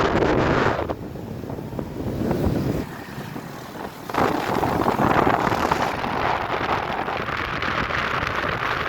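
Wind buffeting the microphone of a moving motorbike, with the bike's running underneath. The wind noise eases about a second in and returns full about four seconds in.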